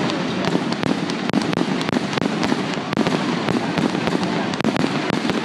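Fireworks going off: a dense, steady stream of rapid pops and crackles.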